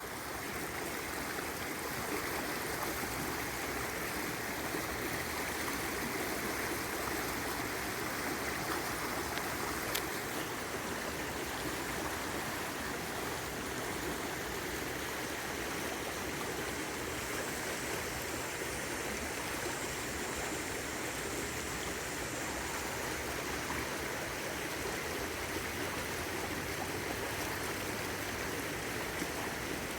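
River water rushing steadily, with one brief click about ten seconds in.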